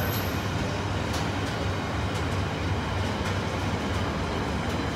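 Container freight train's wagons passing close by: a steady rumble with a few faint clicks of wheels over the rails.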